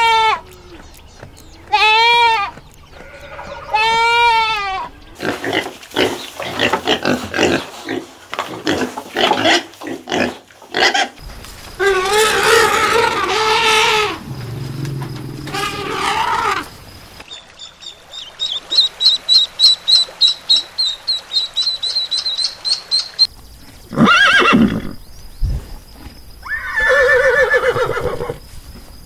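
A series of animal calls: a goat bleating three times at the start, a run of varied calls and grunts in the middle, and a horse whinnying with a wavering pitch near the end.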